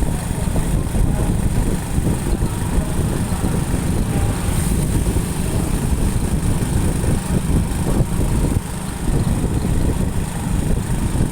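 Steady, loud rumble of a motorcycle riding along a road: engine and road noise with wind buffeting the microphone.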